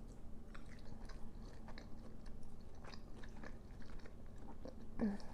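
Crunchy chewing and biting into a breaded, fried-style fish filet, in irregular crisp crunches. A brief voiced murmur comes near the end.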